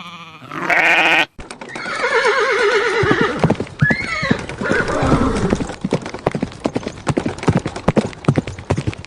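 A horse whinnying twice with a quavering call, over a rapid clatter of hooves clip-clopping. It opens with the tail of a loud bleat that cuts off suddenly about a second in.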